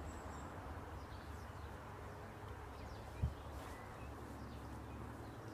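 Outdoor background rumble with faint, scattered bird chirps and a single soft thump about three seconds in.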